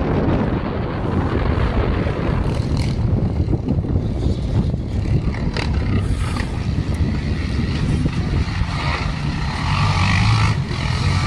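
1967 BSA 500 motorcycle engine running steadily, growing a little louder and brighter about nine seconds in.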